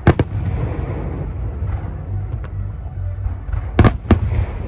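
Aerial firework shells bursting: two sharp bangs just at the start and two more near the end, over a steady low rumble.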